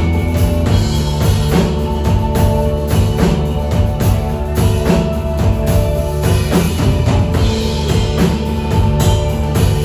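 Live band playing an instrumental passage through the PA, with a steady drum-kit beat of kick and snare under sustained instrument notes; no vocals.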